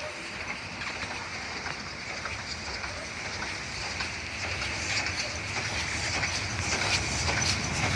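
Train approaching on the line, its rumble and rail noise growing steadily louder with faint clicks from the wheels.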